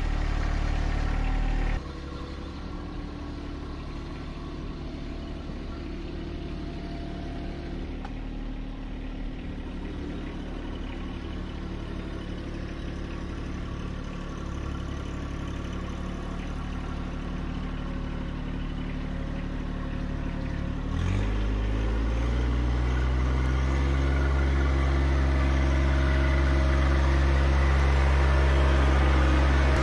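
John Deere 1025R compact tractor's three-cylinder diesel engine running steadily, dropping back a little about two seconds in. About two-thirds of the way through it revs up and keeps running louder.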